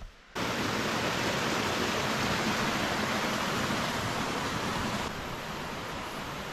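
Rushing water: a steady, even hiss of a forest stream. It starts abruptly and drops in level near the end.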